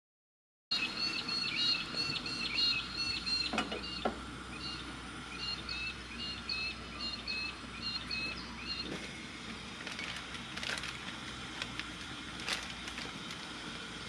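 Birds calling outdoors: quick series of short, repeated chirping notes at two pitches, starting after a brief silence and fading out about nine seconds in. A few light clicks and knocks sound over the steady background.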